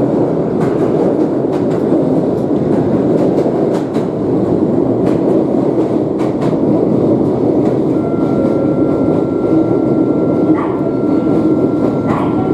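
Toyama Chiho Railway electric train running along the track, a steady rumble with sharp clicks of the wheels over rail joints. A thin steady high tone joins about two-thirds of the way through.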